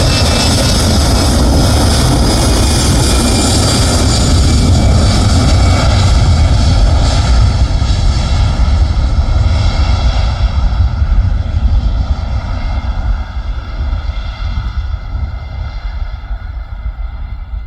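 Airliner engines running loud as the aircraft passes, then fading as it moves away, the high-pitched part of the sound dying out first and a low rumble left.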